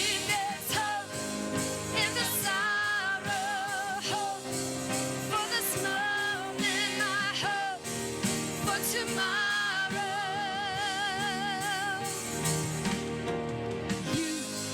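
Live worship song: a singer holds long notes with vibrato over sustained chords from the band.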